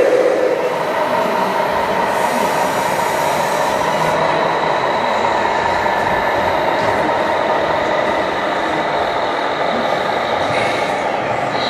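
Radio-controlled model truck running, a steady mechanical whine and rattle with faint high tones held through.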